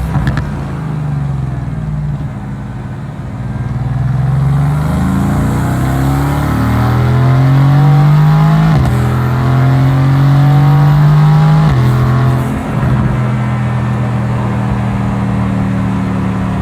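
Mercedes-AMG GT S twin-turbo V8 accelerating hard, its note climbing through the revs. About nine and twelve seconds in it upshifts, each shift a sudden drop in pitch. After the second shift it settles to a steady cruise.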